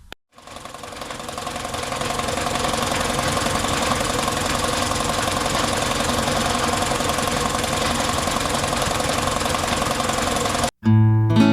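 Electric air compressor starting up: the motor and piston pump come up to speed over about two seconds, then run steadily with a fast knocking pulse. It stops suddenly near the end.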